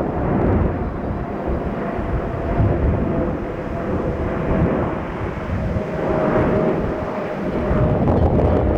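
Airbus A380 jet engines on approach, a steady low rumble with a faint whine held through it, mixed with wind buffeting the microphone.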